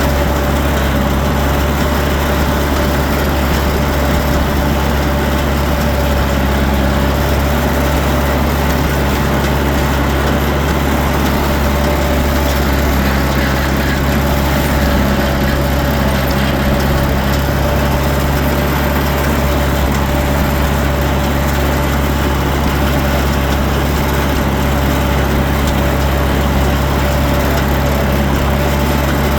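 Tractor engine running at a constant speed: a steady drone with a thin, even whine above it.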